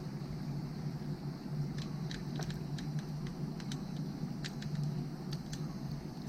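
Firewood burning, crackling with a run of short sharp pops from about two seconds in, over a steady low hum.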